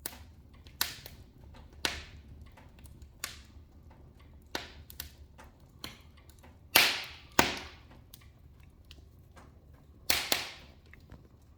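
Wood fire burning in a fireplace, crackling with irregular sharp pops and snaps, the loudest pops coming in the middle and near the end, over a faint low rumble.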